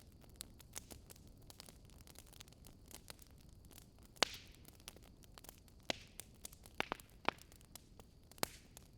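Wood fire crackling: irregular sharp pops and snaps over a soft steady hiss, with a louder snap a little before halfway and a cluster of pops in the second half.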